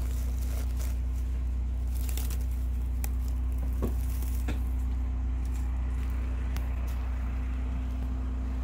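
A vehicle engine idling with a steady low hum, with a couple of faint clicks about four seconds in.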